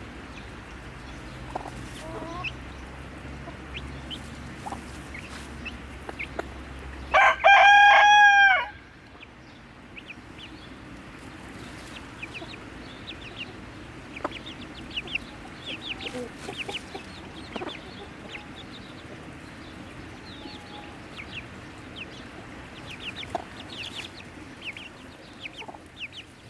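Chickens clucking throughout, with a rooster crowing once, loudly, about seven seconds in.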